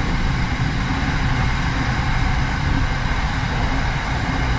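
Steady running noise heard inside the cabin of an SRT Red Line electric commuter train travelling at speed: an even low rumble with a broad hiss over it.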